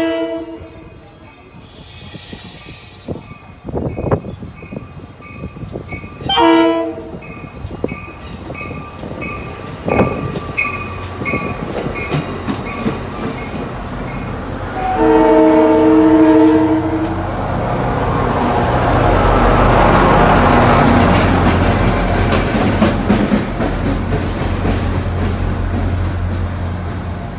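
Shore Line East passenger train approaching and passing. Its multi-chime horn sounds a short blast, then a longer one of about two seconds some ten seconds later, with a bell ringing about twice a second in between. After the long blast, the rumble and rush of the cars and the clack of wheels over rail joints build and carry on to the end.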